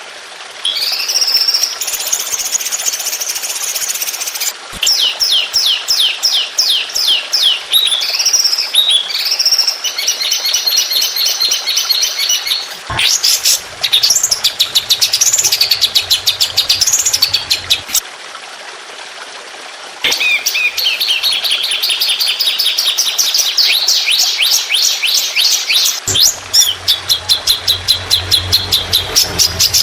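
Songbird masteran recording: fast, rapid-fire runs of repeated high chirps and trills, the 'tembakan' fill song used to tutor competition songbirds. Clips are spliced together, changing abruptly several times, with a short gap of only hiss about two thirds of the way in.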